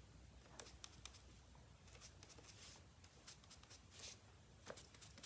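Faint, soft taps and brushing of an ink sponge dabbed lightly around the edges of die-cut paper shapes, irregular and very quiet.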